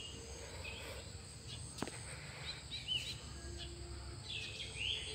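Small birds chirping now and then, short quick calls, over a low steady outdoor background. One sharp click a little under two seconds in.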